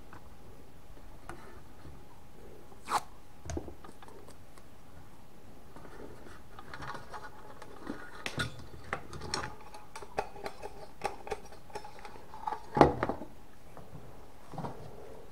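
Hand work on a steel gas mask canister: scattered clicks and small scraping sounds that grow busier in the second half, with one louder metal knock near the end.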